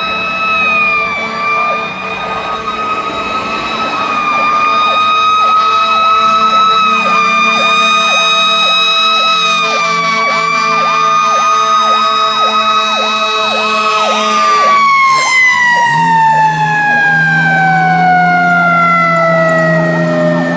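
Fire truck's Federal Q2B mechanical siren held at a high, slightly wavering pitch, then winding down in a long falling tone from about two-thirds of the way in. Over it an electronic siren yelps rapidly until the Q2B starts to coast down. A low steady drone comes in near the end.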